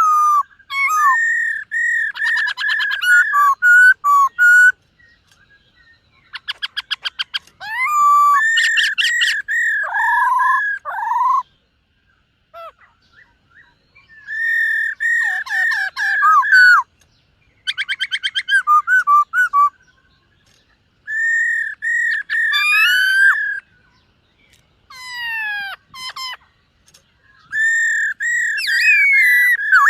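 Black-throated laughingthrush singing a loud, varied song: phrases of repeated clear whistles on nearly one pitch mixed with fast rattling trills and swooping notes, coming in bursts of a second or few with short pauses between.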